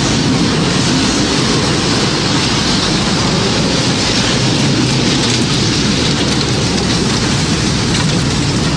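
Tornado storm sound effect: steady, loud rushing wind and rain noise that stays even throughout, with no siren rising or falling in it.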